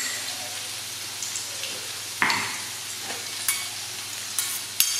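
Lemongrass paste frying in hot oil in a wok, with a steady sizzle. A couple of short knocks of the spoon and spatula against the wok, one about two seconds in and another near the end.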